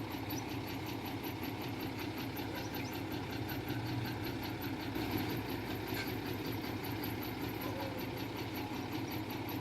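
Heavy construction machine's diesel engine running steadily at low revs, an even hum that neither rises nor falls.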